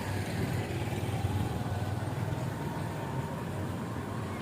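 Motorcycle engine running steadily at an even pitch, with a low, slightly pulsing hum.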